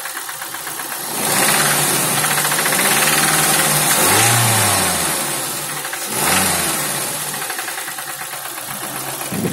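Car engine running and revved, rising about a second in and blipped up and down twice more, with a repetitive knocking in its sound. This is the knock the owner is recording as a fault.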